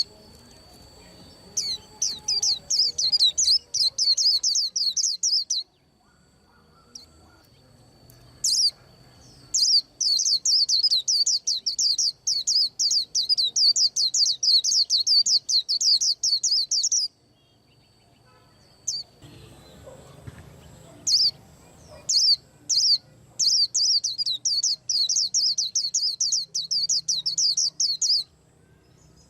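White-eye singing: three long bouts of rapid, high twittering chirps, the first a few seconds long and the other two longer, with a few single chirps in the pauses between them.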